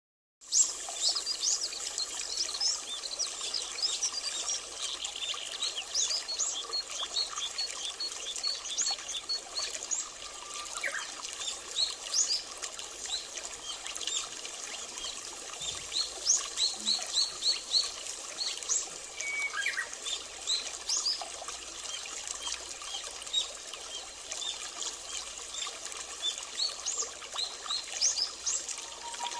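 Many small birds chirping and twittering, short high notes in quick succession, over a steady soft background hiss.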